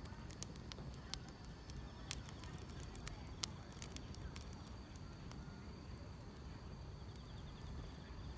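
Wood fire crackling with irregular sharp pops over a low rumble, while insects keep up a steady high-pitched trill, with a faint rapid chirping near the end.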